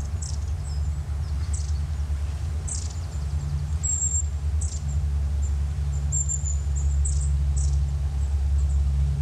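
Small birds chirping, a scattering of short, high-pitched calls, over a steady low rumble.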